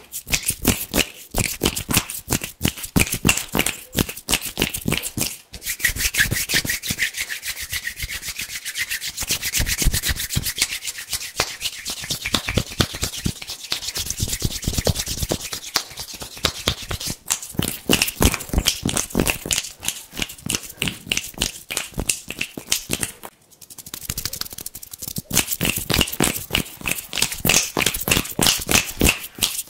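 Hands rubbing together fast and hard, a dense run of crisp rasping strokes, pausing briefly twice.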